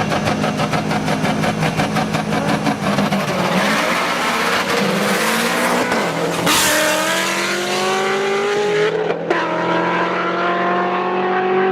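Tuned performance car engine under hard acceleration. It starts with a fast, even pulsing, then rises in pitch as it pulls through the gears, dropping back at gear changes about six and a half and nine seconds in.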